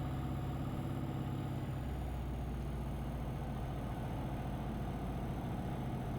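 Cessna light aircraft's piston engine and propeller droning steadily, heard inside the cockpit; the pitch drops slightly about two seconds in.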